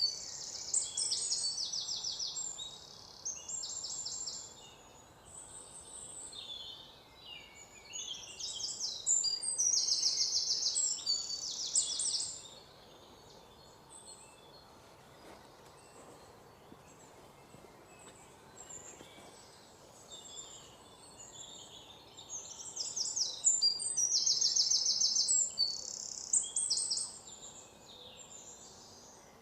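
Songbirds singing: bouts of high, rapid trills and chirps, with quieter stretches in between.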